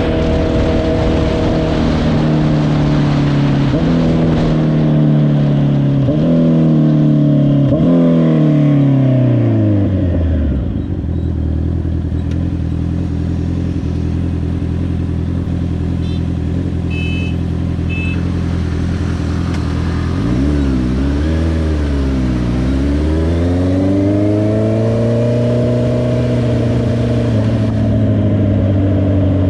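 Honda CBR650R inline-four motorcycle engine slowing down in steps, falling to a steady idle about ten seconds in. It idles for about ten seconds, then revs and pulls away, its pitch rising again.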